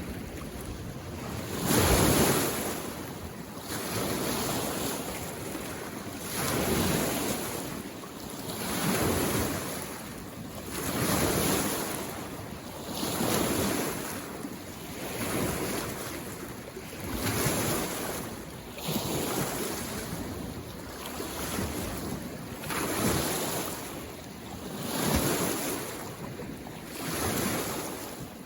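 Small waves washing in on a mountain lake shore, one soft surge of water about every two seconds, the strongest about two seconds in.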